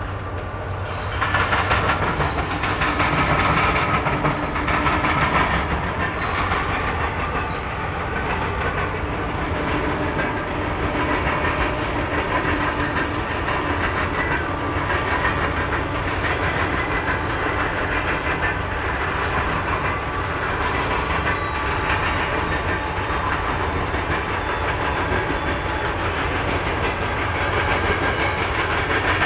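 Two freight trains passing each other. The GE AC44CW locomotives leading an empty coal train go by about a second in, then a long string of empty coal cars rolls past with steady wheel clatter, while an autorack train runs on the far track.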